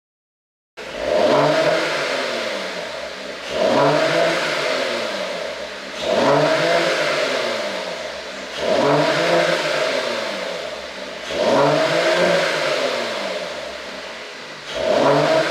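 Mercedes-Benz CLS450's turbocharged inline-six revved six times, each blip rising sharply and the revs then falling slowly back over two to three seconds, through an exhaust with an ECU tune set up for pops on the overrun.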